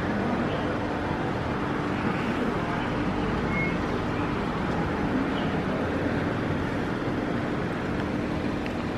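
Steady machine noise with a constant low hum under an even rush, unchanging throughout.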